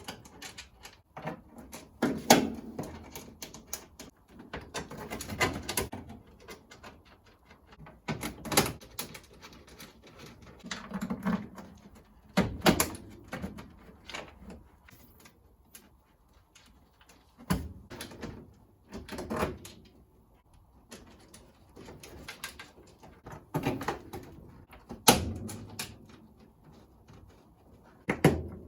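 Nuts, bolts and metal parts knocking and clattering in irregular short bursts every couple of seconds as a panel is bolted down by hand.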